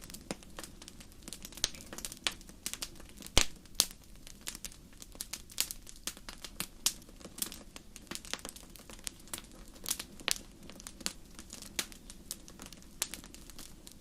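Wood fire burning in a fireplace, crackling with many irregular sharp pops over a low steady rush. The loudest pop comes about three and a half seconds in.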